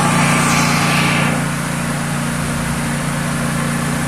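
A small engine running steadily with a constant hum, with a hiss on top that fades out about a second in.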